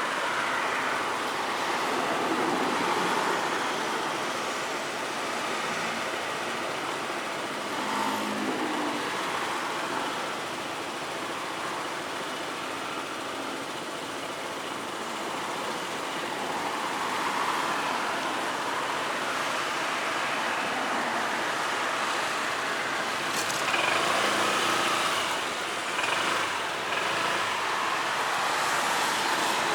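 Road traffic noise: a steady rush of passing vehicles that swells and eases, louder about 24 seconds in.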